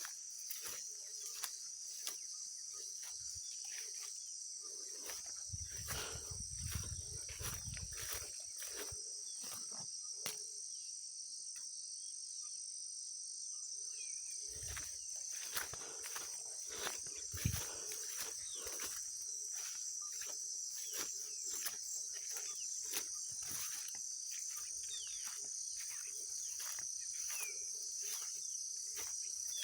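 A steady, high-pitched insect chorus in forest undergrowth, with footsteps crunching dry leaves and twigs on a forest trail in frequent short crackles. A brief low rumble comes about six seconds in.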